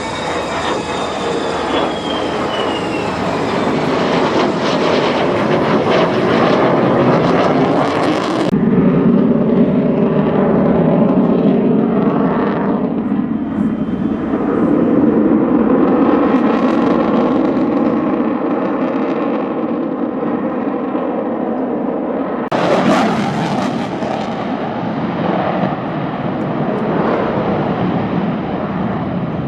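Display aircraft's engine droning as it flies past, with a whine falling in pitch over the first few seconds. The sound changes abruptly twice, about 8 and 22 seconds in.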